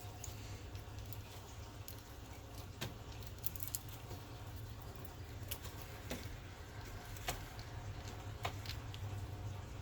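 Scattered light clicks and taps of hand tools and bolts during radiator removal, about seven in all and a second or so apart, over a low steady hum.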